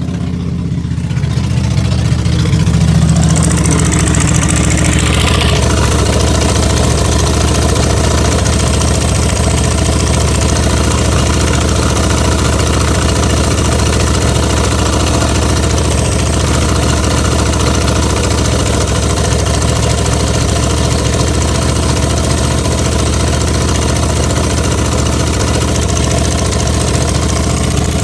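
Oldsmobile 307 V8 running with a steady engine note after rising in speed over the first two to three seconds. It is running on a newly fitted Edelbrock carburettor that is still being adjusted to hold an idle.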